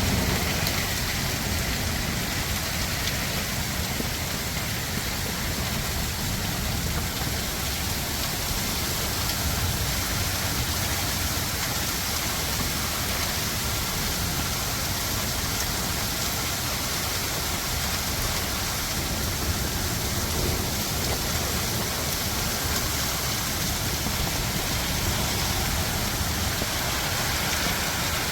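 Heavy rain falling steadily, an unbroken hiss of rain with a low rumble under it.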